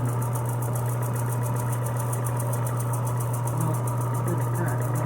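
Electric sanding machine's motor running steadily, with a strong low hum and a fast, even flutter of about eight beats a second, as it is used to smooth a metal handle for paint.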